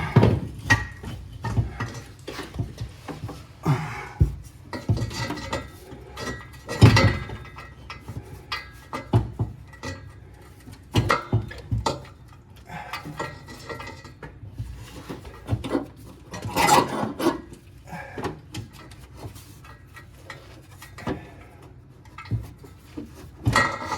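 Irregular metal clanks, knocks and scraping as a repaired exhaust section is worked and shifted into line against its new gasket. Two knocks stand out, about seven and seventeen seconds in.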